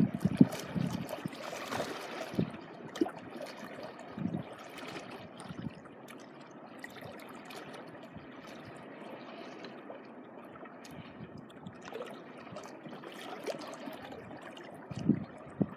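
Small sea waves lapping and trickling over the shore, with a few short low thuds near the start and again near the end.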